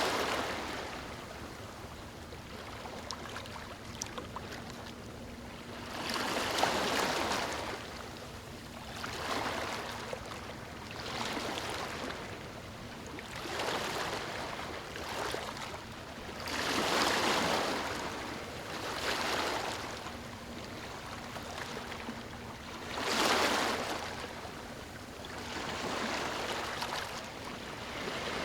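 Small waves lapping on a beach: each wash swells and fades every few seconds, over a steady hiss of surf. The loudest washes come about a quarter, three fifths and four fifths of the way through.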